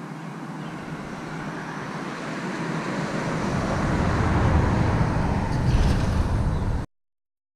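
Road traffic: a motor vehicle approaching, its noise growing steadily louder with a deepening rumble, until the sound cuts off abruptly near the end.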